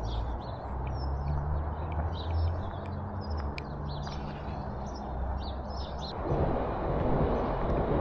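Birds chirping repeatedly over a steady low hum. About six seconds in, a louder rough noise comes in.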